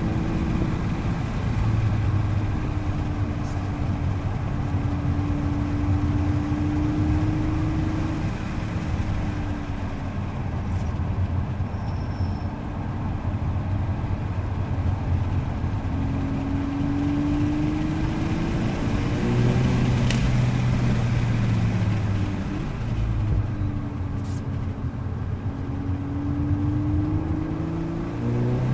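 Cabin sound of a 2022 Volkswagen Golf R's turbocharged 2.0-litre four-cylinder engine pulling the car through corners, its note sinking and rising several times as the car slows and picks up speed, over steady tyre and road noise.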